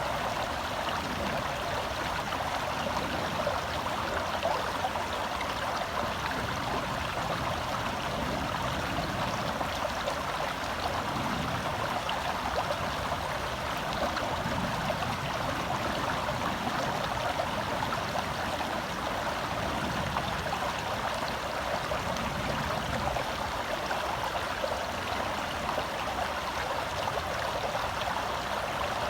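Gentle forest stream flowing steadily, an even babbling rush of water.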